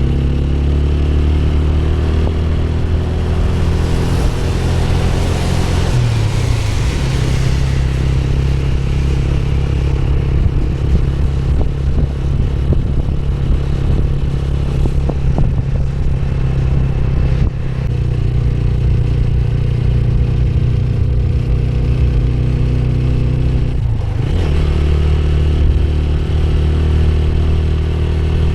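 Motorcycle engine running steadily while riding, with its pitch dipping briefly twice, about six seconds in and again near the end. A rushing hiss rises over it between about four and eight seconds in.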